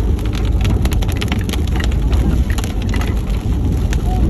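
Heavy rain hitting a moving vehicle, heard from inside, as many sharp drop clicks over a steady low rumble of engine and road noise.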